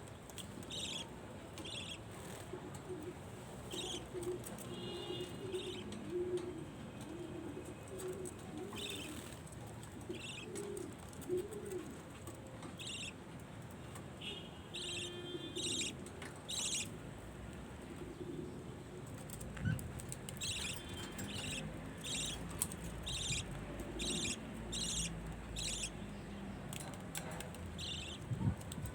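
Budgerigars chirping in many short, repeated high calls, denser in the second half, with pigeons cooing low in the background.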